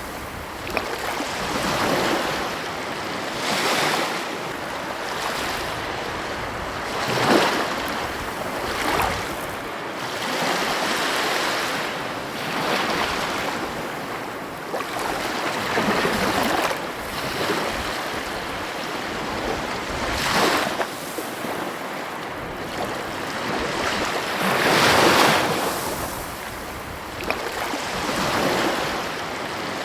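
Ocean surf breaking and washing onto a beach, a steady rushing wash that swells into a louder surge every few seconds as each wave comes in.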